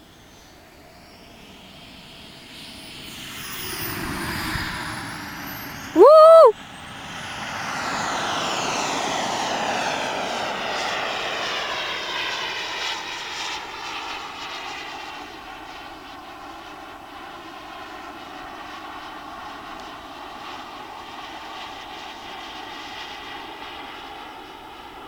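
Turbine engine of a Jet-Italia Kayman model jet on a flyby: a rising hiss as it approaches, then a long whooshing pass that peaks and slowly fades to a steady distant whine. A sudden, very loud half-second tone that rises and falls comes about six seconds in.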